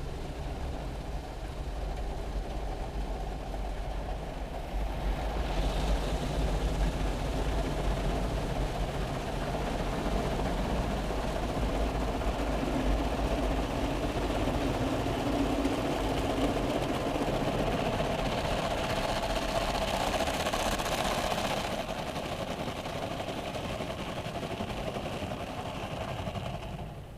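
YASUI Miracon Rush automatic car wash machine running its wash cycle over a car: a steady low motor hum under a broad washing noise that swells about five seconds in and drops away abruptly at the end.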